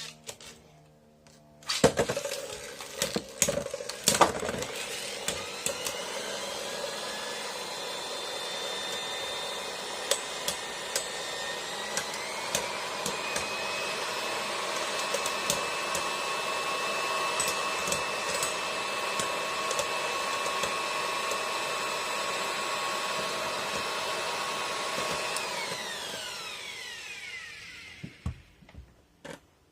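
Rock Leone 145WB Beyblade spinning: a few sharp clacks about two seconds in, then a steady high whir with occasional ticks for over twenty seconds. Near the end the whir falls in pitch and dies away as the top slows and stops.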